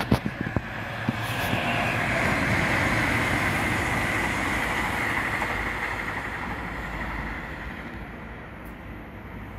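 Red regional electric multiple-unit train passing on the line, a steady rushing of wheels and motors that builds to its loudest about three seconds in and then fades as the train moves away. A few sharp clicks at the very start.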